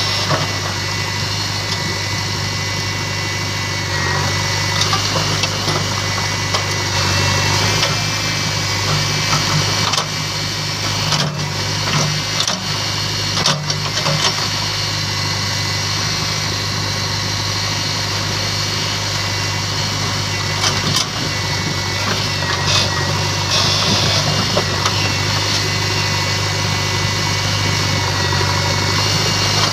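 Heavy diesel engine of a loader or tractor running steadily. It grows louder several times, as if under load, and there are a few sharp knocks around the middle.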